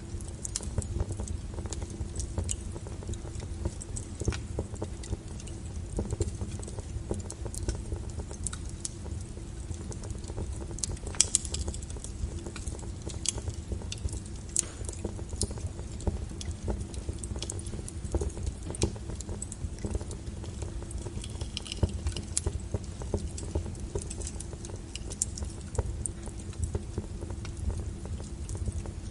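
Wood fire burning, crackling and popping irregularly over a low steady rumble; one sharp pop about eleven seconds in stands out as the loudest.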